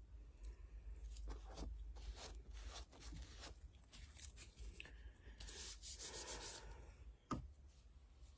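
Faint handling noises: scattered soft clicks, a brief rustling, tearing sound about five and a half seconds in, and one sharp knock near the end.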